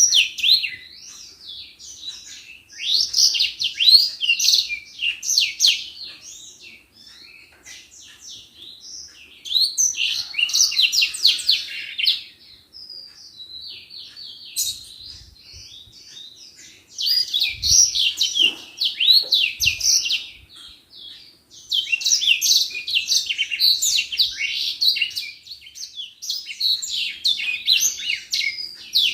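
Edel sanger, a small African seedeater kept as a cage bird, singing in full voice: long phrases of rapid, high twittering and warbling notes, broken by short pauses.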